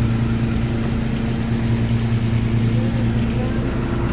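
Fishing boat's engine running steadily with an even low drone.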